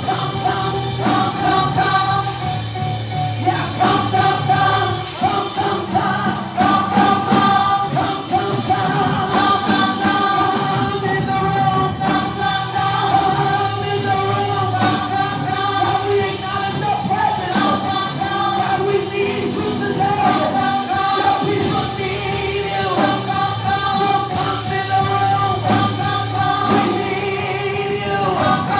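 Live gospel worship music: a full band with a steady beat under singers and a backing choir.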